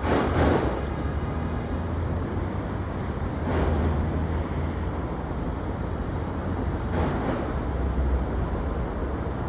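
An R62A subway train on the 1 line approaching the station: a steady low rumble that swells about every three and a half seconds.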